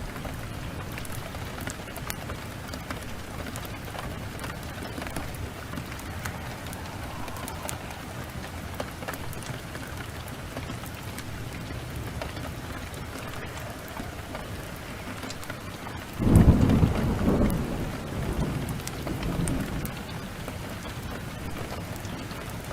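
Steady heavy rain with scattered sharp crackles. About two-thirds of the way through, a loud clap of thunder breaks in and rumbles for a few seconds, fading in a second, smaller roll.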